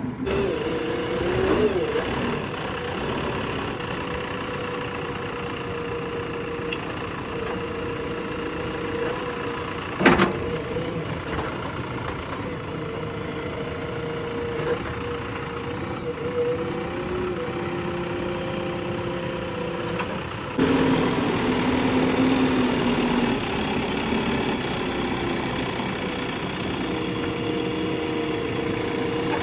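JCB backhoe loader's diesel engine running steadily, its pitch shifting now and then as it works. One sharp knock about ten seconds in, and a sudden step up in loudness about two-thirds of the way through.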